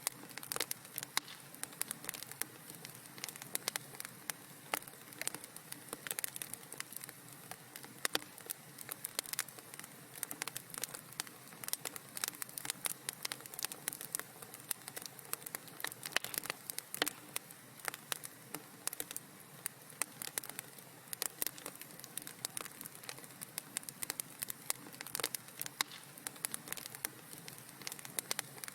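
Wood fire in a fireplace crackling and popping, many small irregular snaps over a soft steady hiss.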